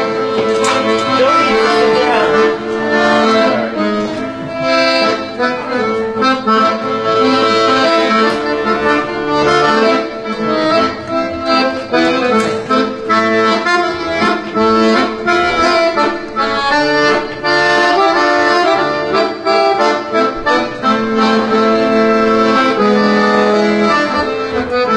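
Accordion playing an instrumental introduction to a song, with held chords that change every few seconds.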